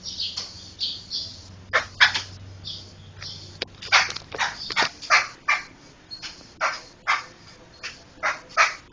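Poksay (laughingthrush) calling: a quick, irregular series of short, harsh chattering notes.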